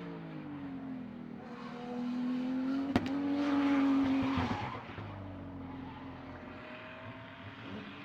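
BMW E36 race car's engine running hard at high revs, its note climbing to its loudest about three seconds in, with a single sharp click, then dropping away and carrying on at a lower level.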